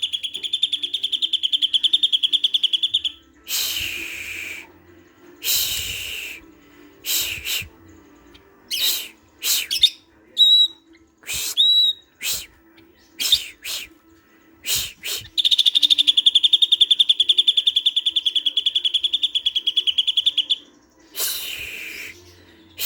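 Greater green leafbird (cucak ijo) singing: a long rapid trill at the start and another in the second half, with a run of short harsh calls and two rising whistles between them.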